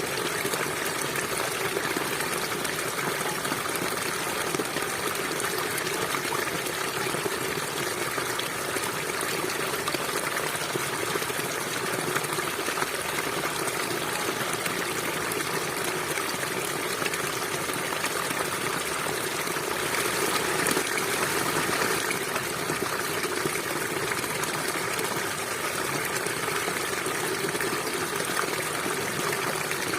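A stream of water running steadily over rocks, a continuous rushing and trickling that swells slightly about two-thirds of the way in.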